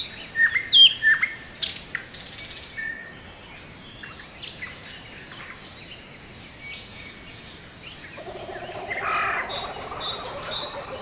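Several wild birds chirping and calling: sharp, downward-sliding chirps and whistles, loudest in the first couple of seconds, then high trills. About eight seconds in, a lower, pulsing call joins them.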